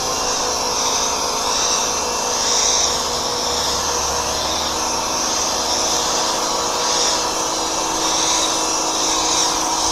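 Pressure washer running steadily, a motor hum under the constant hiss of the water spray.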